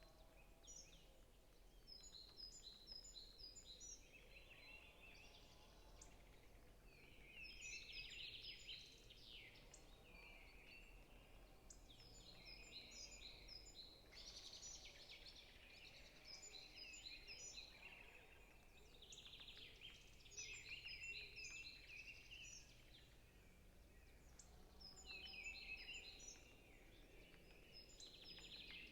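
Faint songbirds singing in a forest: one repeats a phrase of quick, high notes every five or six seconds, while others add trills in between.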